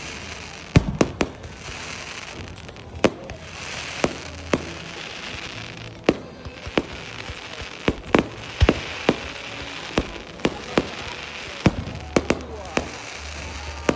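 Fireworks going off: a rapid, irregular string of sharp bangs, one or two a second, over a continuous hiss.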